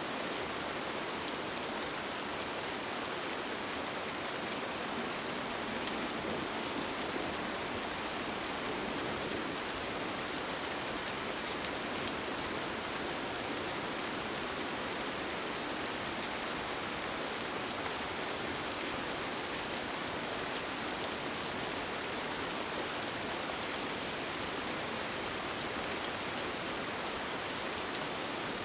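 Steady rain falling on a tent: an even hiss with faint scattered drop taps, unchanging throughout.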